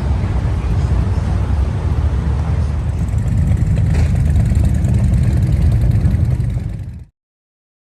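Steady low rumble of a running motor vehicle, cutting off abruptly about seven seconds in.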